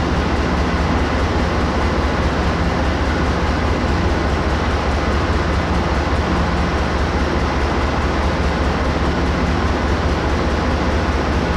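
MBTA commuter rail train with its diesel locomotive running, a steady low rumble that holds an even level without rising or fading.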